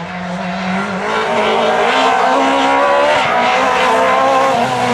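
Group F2000 rally car engine at full throttle, loud, its pitch climbing steadily as the revs rise.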